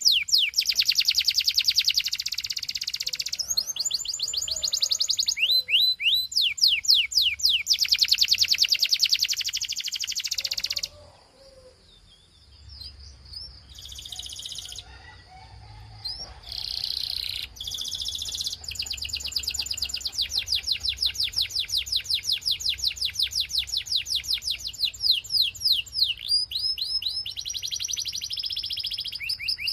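Belgian canary singing: fast trills and rolls of rapidly repeated chirping notes, broken near the middle by a pause of about two seconds and a few short phrases before the long rolls resume.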